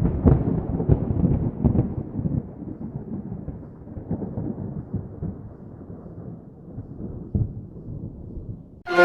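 Wind and rain buffeting the microphone: a low, irregular rumble with many thumps, starting suddenly, loudest in the first couple of seconds and easing off toward the end.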